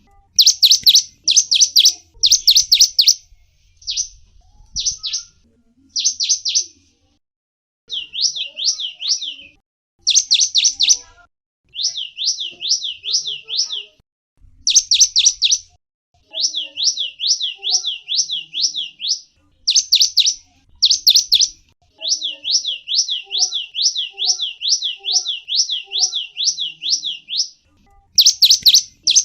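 Gelatik wingko songbird calling: runs of high, quickly repeated sweeping chirps, about three a second, broken by short pauses.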